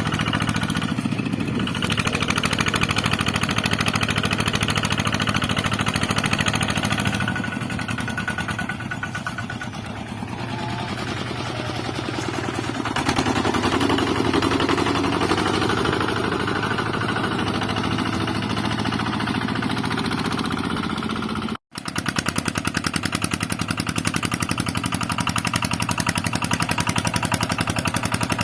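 Tractor engines running with a fast, even firing beat. The sound changes character a few times, and breaks off for an instant about three quarters of the way through before an engine runs on.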